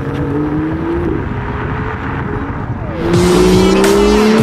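BMW M2's turbocharged straight-six accelerating: the engine note rises, drops at an upshift about a second in, then comes in much louder and climbing again about three seconds in. Music plays underneath.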